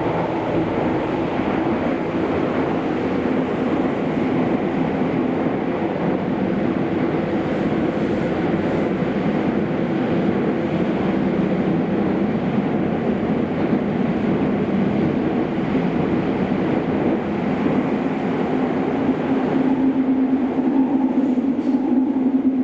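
Kobe City Subway 5000-series linear-motor train running at speed underground: a steady rumble of wheels and car with a held motor hum. Near the end the hum grows louder.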